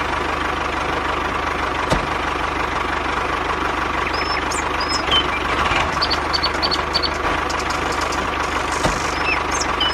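A small motor running steadily at an even speed, with a fast regular pulse. Birds chirp faintly from about halfway through.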